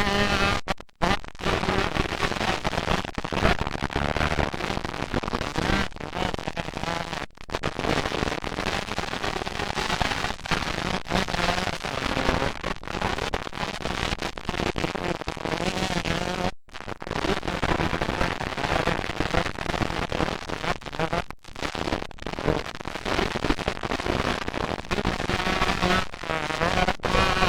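Several motocross bikes racing, their engines revving up and down so the pitch keeps rising and falling, with brief gaps where the sound cuts out.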